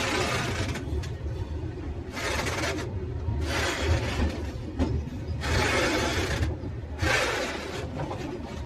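Train wheels running on the rails: a steady low rumble with a rasping hiss that swells and fades about every second or so.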